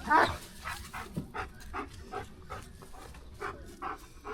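A dog whining and whimpering: one louder cry at the start, then a string of short, quieter whines about every half second.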